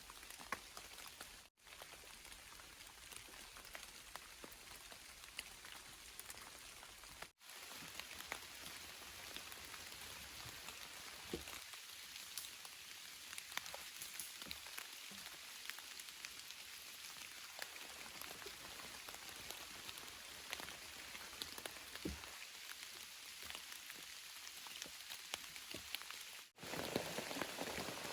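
Steady rain falling, with many individual drops pattering. The sound cuts out briefly three times and is louder after the last gap near the end.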